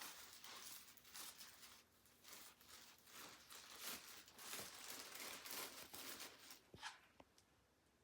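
Grocery bags rustling and crinkling faintly in short, irregular bursts, followed by two or three light clicks near the end.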